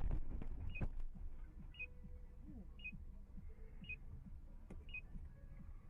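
A short, high electronic beep repeating about once a second, over a faint low rumble.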